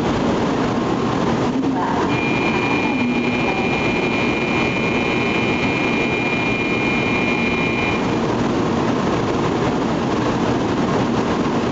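N700 series Kyushu Shinkansen train running at the station platform, a loud steady rush of running noise. A high steady whine sits over it from about two seconds in until about eight seconds in.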